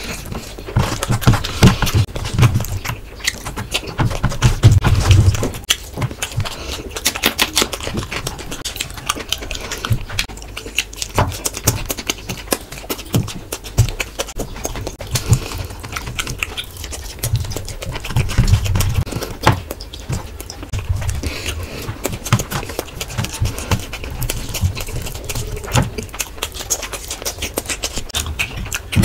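Close-miked eating sounds: wet chewing, lip-smacking and squelching of a mouthful of rice and curry eaten by hand, with irregular clicks and occasional heavier breaths.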